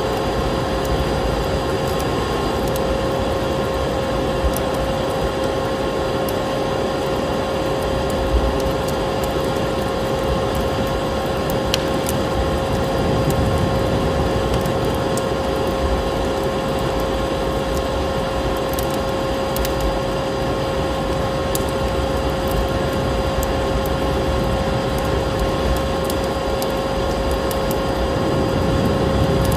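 Vacuum cleaner motor running steadily, a constant whine over a steady rushing noise, with a few sharp crackling clicks scattered through.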